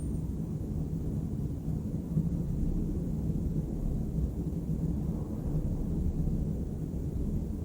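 Steady low rumble of distant city traffic, an even hum with no distinct events.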